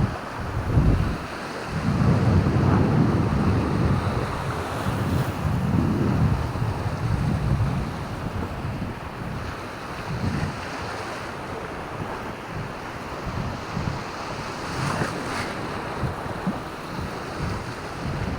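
Wind buffeting the microphone over a steady wash of surf, with strong gusts in the first half that ease off about halfway through.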